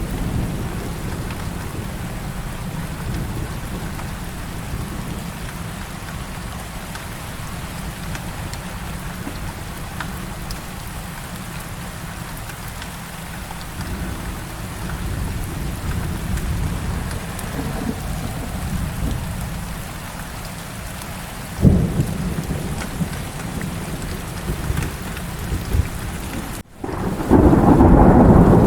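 Heavy rain falling steadily, with thunder rumbling low underneath and one sudden loud thunderclap about 22 seconds in. Near the end the sound drops out for a moment and returns louder, with heavier rain.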